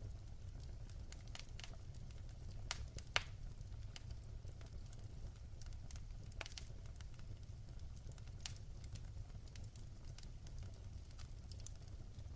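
Wood fire crackling in a fireplace: scattered sharp pops and snaps over a low steady rumble, the loudest pop about three seconds in.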